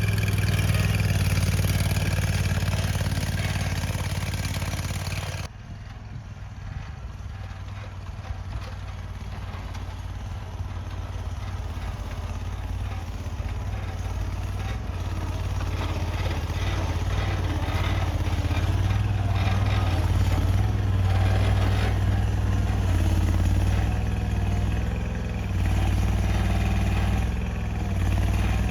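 Skid loader engine running steadily with a strong low hum. It changes abruptly about five seconds in, then its pitch rises and falls as the machine works.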